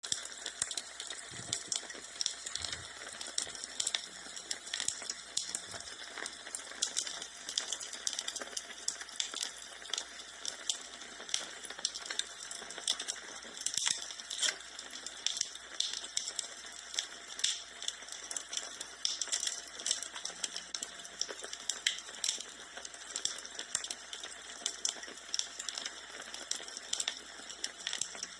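Wood fire in a fireplace crackling: irregular sharp pops and snaps over a steady hiss, with no let-up.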